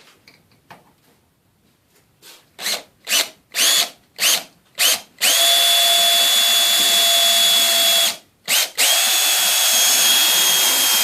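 Electric drill boring into a metal garage door panel: several short trigger pulls, then two long steady runs with a high motor whine, with a brief stop between them.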